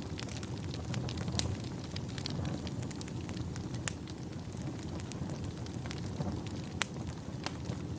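Wood fire in a fireplace crackling, with irregular sharp pops, a few louder ones, over a steady low rumble.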